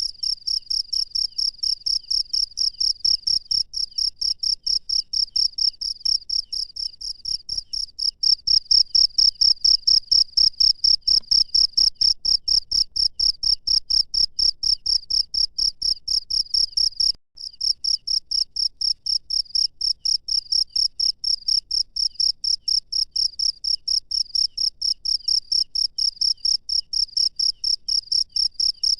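A cricket chirping steadily in an even rhythm of about three to four high chirps a second, with a momentary break about two-thirds of the way through.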